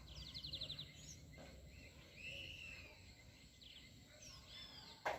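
Faint calls of birds: a quick trill of about eight high notes at the start, then scattered arching chirps and whistles. A single sharp knock near the end.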